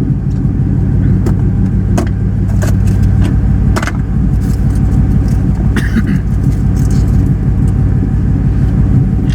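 Car engine idling with a steady low rumble, the exhaust loud enough to be called "too nasty", with a few light clicks on top.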